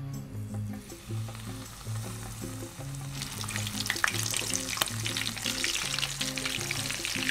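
Breaded ham cutlets frying in hot oil, a steady sizzle with sharp crackles that grows much louder about three seconds in. Background music plays underneath.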